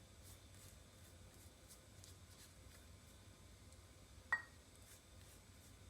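Near silence: faint room tone with a low hum, broken by one short sharp click about four seconds in.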